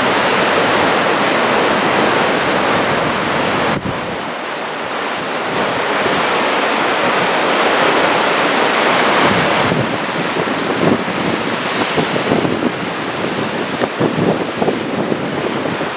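Typhoon-driven surf, head-high waves, breaking and washing in a steady rush, with wind buffeting the microphone in gusts during the second half.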